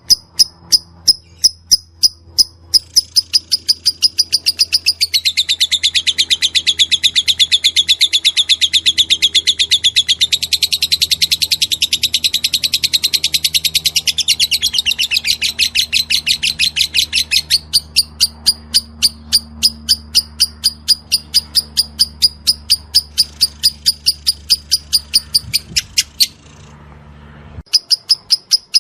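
Lovebird calling: a string of sharp, evenly spaced chirps, about four a second, broken from about three seconds in to about seventeen seconds by a long, fast rattling trill, the 'ngekek' chatter prized in lovebirds. A steady low hum lies underneath, and the calls stop briefly near the end.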